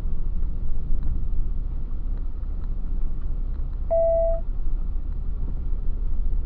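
Truck engine and road noise, a steady low rumble inside the cab while driving, with a single short beep about four seconds in.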